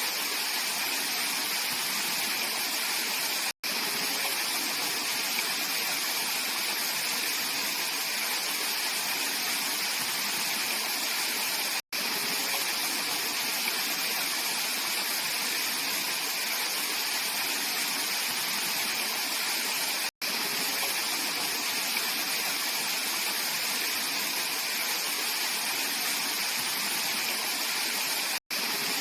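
Clear mountain stream rushing steadily over rocks, a dense hiss of flowing water. The sound drops out for a split second about every eight seconds.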